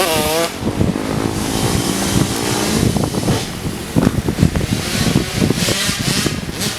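Dirt bike engines revving on a motocross track, the pitch swinging up and down at the start, with wind buffeting the microphone.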